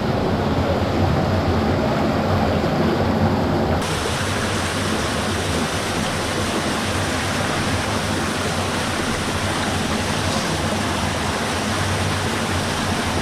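Water running steadily with a constant rushing sound. The tone changes slightly about four seconds in.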